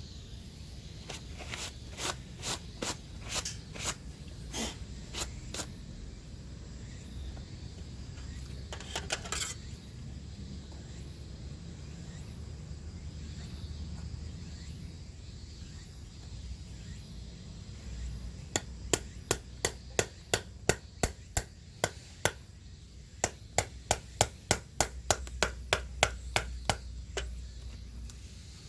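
Repeated sharp hammer strikes, a few scattered ones at first, then a steady run of about two a second near the end.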